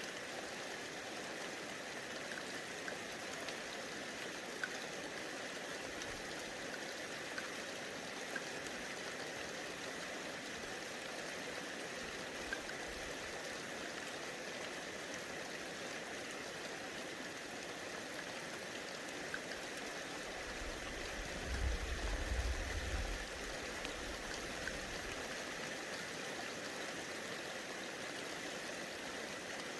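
Steady hiss of light rain falling, with a deep low rumble about two-thirds of the way through that lasts a few seconds.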